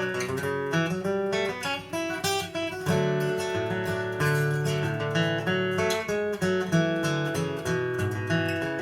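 Acoustic bluegrass instrumental break with no singing: a strummed acoustic guitar and a quick picked string melody over moving bass notes.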